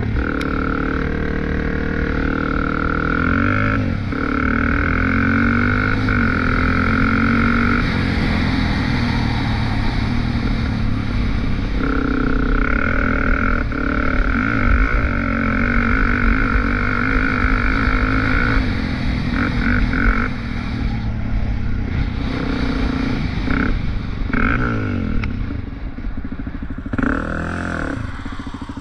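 Off-road vehicle engine revving up and easing off over and over under hard riding, with a steady high whine over it that comes and goes. It runs softer near the end.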